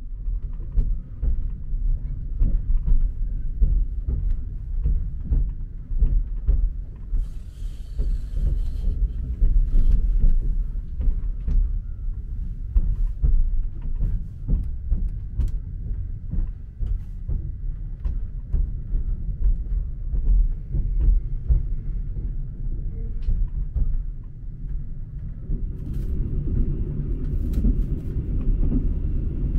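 Interior of a moving sleeper train carriage: a steady low rumble with frequent quick clicks and rattles from the running train, growing somewhat fuller near the end.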